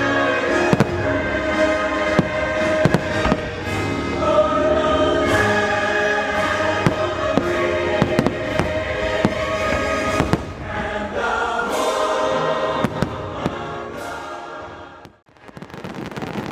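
Choral show music with a choir singing over it, punctuated by fireworks bangs. About 14 s in the music fades out, and near the end a dense crackle of fireworks takes over.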